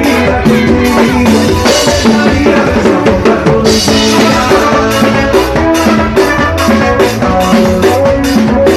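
A band playing upbeat dance music, with a drum kit driving a steady fast beat under held pitched notes. Cymbal washes come in about two and four seconds in.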